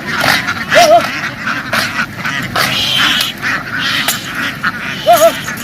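A flock of domestic ducks quacking, many calls overlapping in a continuous clamour, with louder single quacks about a second in and near the end.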